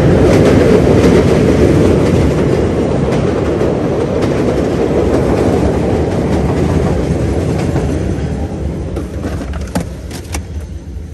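Chicago rapid-transit train passing close by: a loud, steady rumble that fades away over the last few seconds, with a couple of sharp clicks about ten seconds in.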